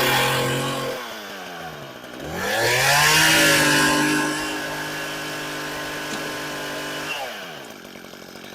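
Gas chainsaw engine at full throttle that drops toward idle about a second in, revs back up for about five seconds, then falls back to idle near the end.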